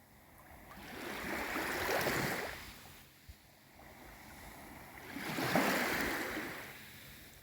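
Small waves on a calm sea washing in twice, each a swell of water noise that builds and falls away over about two seconds.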